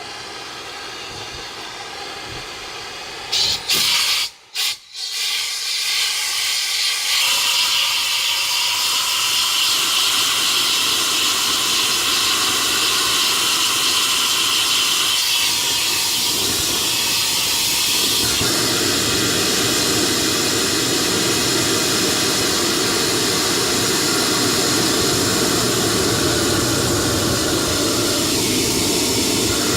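Burn test of a homemade jet engine's propane-fed combustion chamber: a steady hissing rush of gas and air. It cuts out briefly twice about four to five seconds in, then runs louder and steady, and grows fuller and lower from about eighteen seconds.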